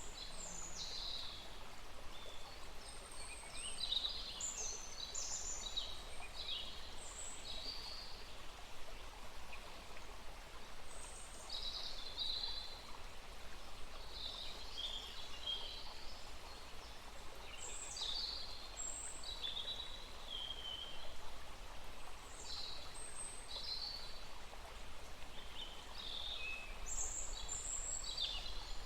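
Small forest stream running steadily, with several songbirds singing short, high chirping phrases over it throughout.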